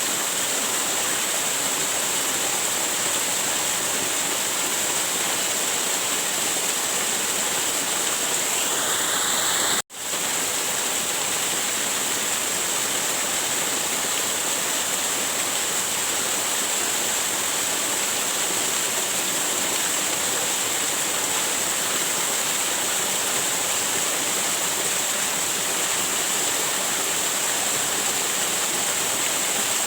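Waterfall rushing steadily, an even hiss of falling water. About ten seconds in, the sound cuts out for an instant and comes straight back.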